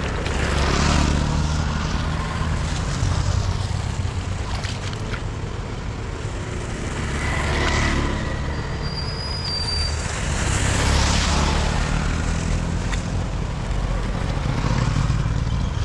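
Road traffic passing on a rain-wet street: a steady low rumble of engines, with tyre hiss swelling and fading as several vehicles go by.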